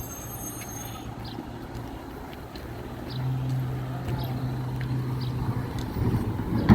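Garbage truck engine running steadily with a low hum that gets louder about three seconds in.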